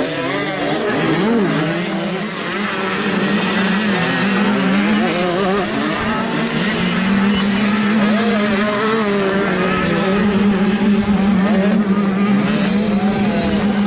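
Several 85cc two-stroke motocross bikes racing, their engines revving up and down over one another. From about halfway through, one engine holds a steady note.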